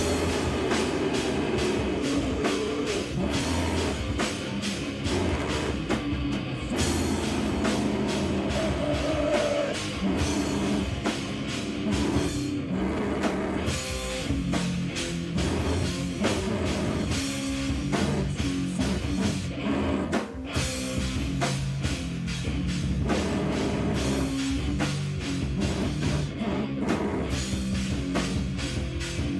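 Live rock band playing loud and without a break: distorted guitar over drums with rapid, closely spaced hits.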